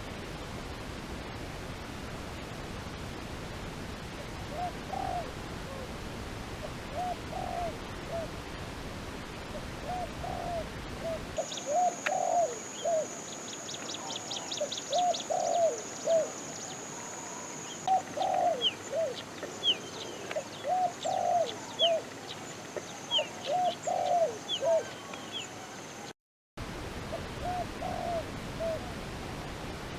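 Doves cooing in short repeated notes, one every second or two. From about a third of the way in, smaller birds chirp quickly over them with a steady high tone. The sound drops out for a moment near the end.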